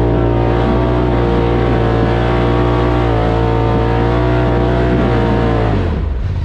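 Side-by-side UTV engine running at steady high revs, then dropping in pitch as the throttle is let off near the end.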